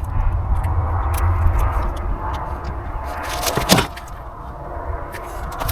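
Low rumble of a vehicle engine running, which drops off about two-thirds of the way through, with scattered light metallic clicks and clinks and one sharper knock just before the rumble fades.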